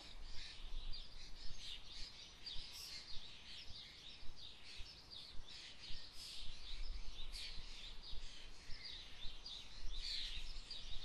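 Many small birds chirping in quick, overlapping short calls, with a faint low rumble coming and going beneath.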